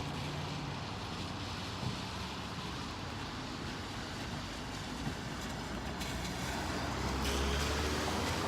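Steady street traffic noise, with a motor vehicle's engine rumble growing louder near the end.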